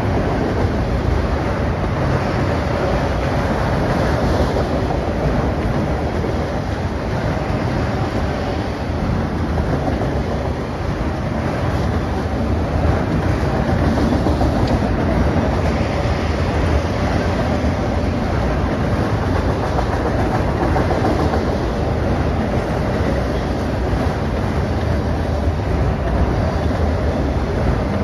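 Autorack freight cars rolling past on the rails: the steady, continuous noise of steel wheels running on track as a long freight train goes by.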